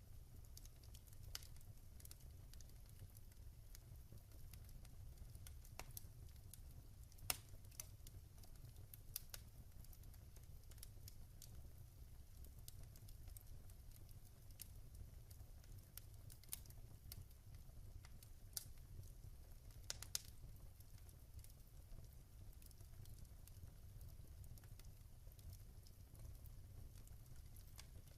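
Wood fire in a fireplace crackling faintly: scattered sharp pops and snaps over a low steady rumble, the sharpest pop about seven seconds in and a small cluster around twenty seconds.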